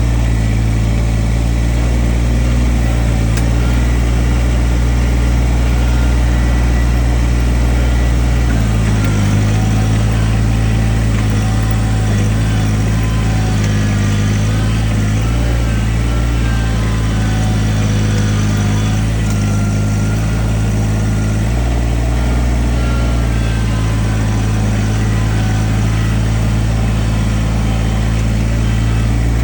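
Kubota backhoe's diesel engine running steadily, its note shifting at about 9 seconds and again at about 21 seconds.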